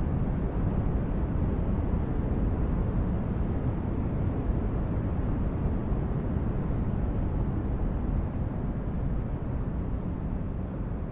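Sci-fi spaceship-interior ambience: a steady, deep noise like brown noise, heavy in the bass and thinning out toward the treble, with no distinct tones or events. It eases slightly in level about eight seconds in.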